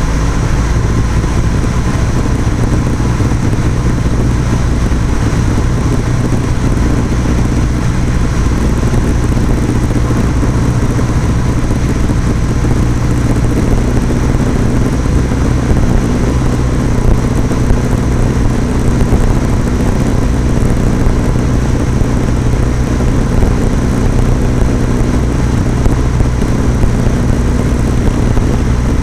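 Cessna 172's single piston engine and propeller running steadily at a constant pitch.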